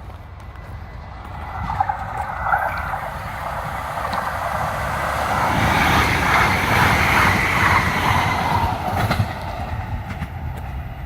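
Kinki Sharyo P3010 light rail train passing on its tracks. The running noise of wheels on rails builds, is loudest about six to eight seconds in, then eases off, with a low rumble underneath.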